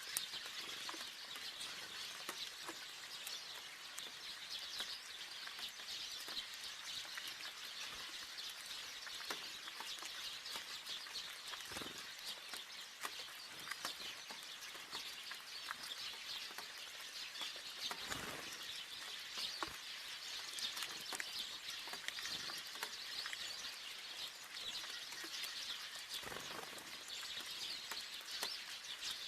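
Steady rain falling, an even hiss dotted with many small drip and patter clicks.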